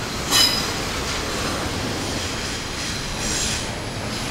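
Double-stack intermodal train's container well cars rolling past close by, a steady rumble of wheels on rail. A short, loud, high-pitched wheel squeal comes about half a second in, and a fainter one a little after three seconds.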